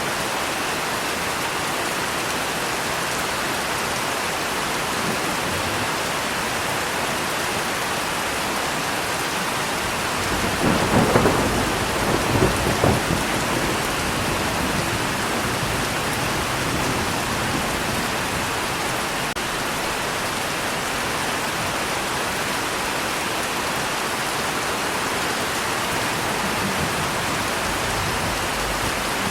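Steady rain. About ten seconds in, thunder rumbles with several loud peaks over two or three seconds, then dies away into the rain.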